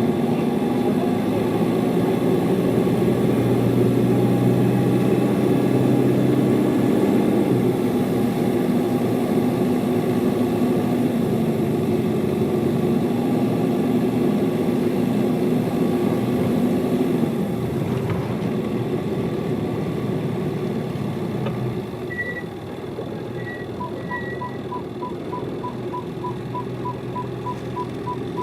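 Hino Liesse bus diesel engine pulling steadily, heard from inside the cabin; about 17 seconds in it eases off and drops in level. Near the end a regular run of short high beeps starts, about three a second.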